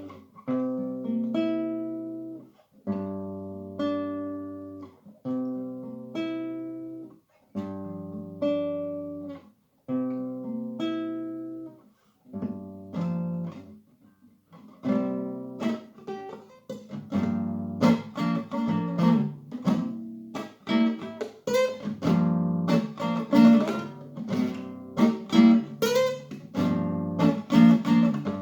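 Acoustic guitar strumming chords, each left to ring and fade, about one every second or so. After a short pause the strumming turns faster and louder, about seventeen seconds in.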